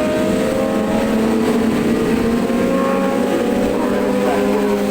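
Supersport racing motorcycle engines running on the circuit, a steady drone of several tones with small shifts in pitch.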